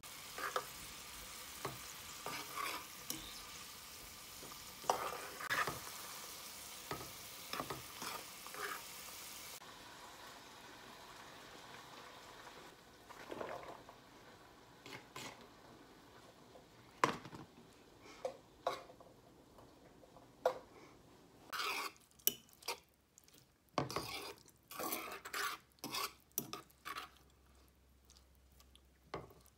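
Chicken and chopped vegetables sizzling in a skillet while a fork stirs and scrapes the pan. The sizzle is strong at first and drops away about ten seconds in, leaving separate clicks and scrapes of the fork on the pan, thickest near the end.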